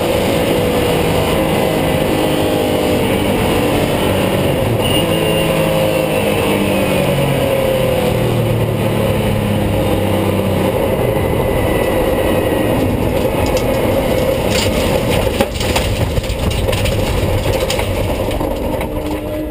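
Race car engine heard from inside the cockpit while driving, its pitch falling in steps as the car slows, with a run of sharp clicks and knocks in the last few seconds.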